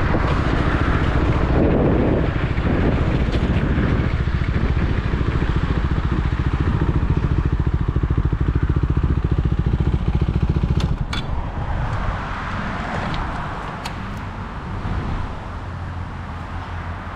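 Motorcycle engine running while riding, with wind noise on the microphone. About eleven seconds in there are a few sharp clicks, then the engine sound drops and the bike runs more quietly.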